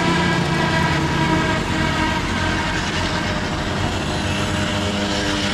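Small two-stroke moped or scooter engine running steadily, its pitch shifting slightly about two seconds in and again near the end.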